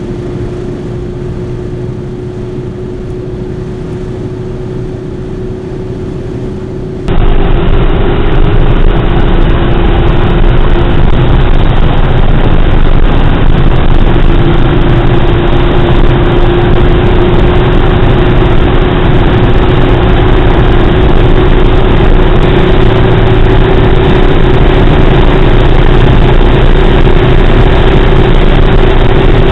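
Skoda Octavia 2.0 TDI's four-cylinder diesel under load at high speed, its drone creeping slowly upward in pitch as the car gains speed, over heavy wind and road noise. About seven seconds in, the sound suddenly becomes much louder and rougher, and stays that way.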